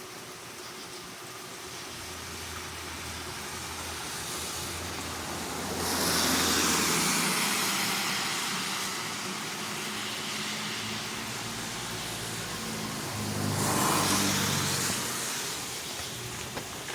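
Two road vehicles passing on a wet road. The tyre hiss swells and fades twice, loudest about six seconds in and again about fourteen seconds in, with a faint engine hum under each pass.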